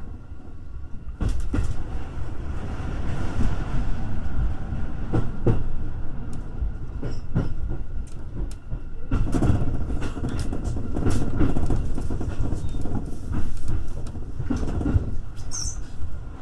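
Musashino Line electric train running on the rails, heard from the front cab: a steady low rumble with repeated sharp clicks of the wheels over rail joints, growing louder about a second in.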